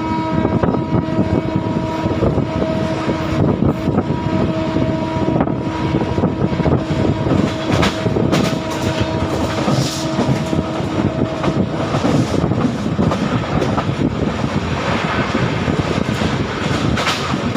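Passenger train running at speed, wheels rattling and clicking over the rails, while the WAP-7 electric locomotive's horn sounds one long steady blast that cuts off about two-thirds of the way through.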